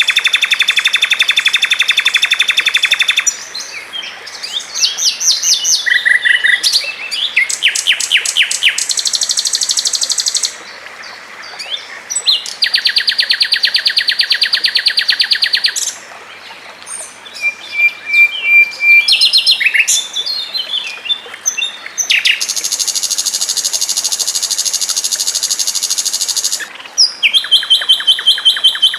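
Songbird song delivered at high speed: long, very rapid trills of repeated notes, each lasting a few seconds, three times (at the start, in the middle and a little past two-thirds of the way), with quicker chirps and short whistled phrases between them and a fast run of sharp notes near the end.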